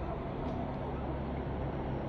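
Motorcycle engine idling steadily, a low even hum.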